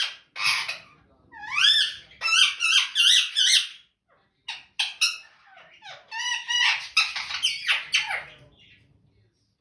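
Indian ringneck parrot calling and chattering: loud, shrill squawks and whistled notes that swoop up and down in pitch, in several bursts, with a few short sharp notes near the middle.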